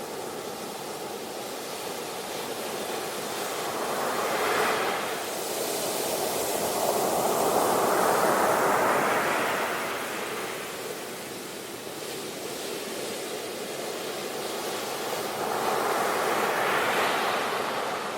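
Sea waves breaking and washing up the shore, the surf swelling and ebbing with each wave: one short surge about four seconds in, a longer one around eight seconds, and another near the end.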